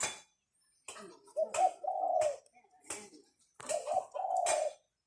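Decoy roosters calling: a series of short crows and clucks, one after another, with a gap of a few tenths of a second between them.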